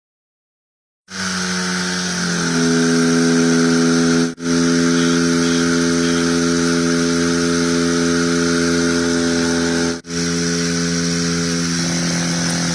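Small 12-volt water pump motor running: a steady electric hum with a hiss over it. It starts about a second in, rises in pitch and settles about two seconds in, and cuts out for an instant twice.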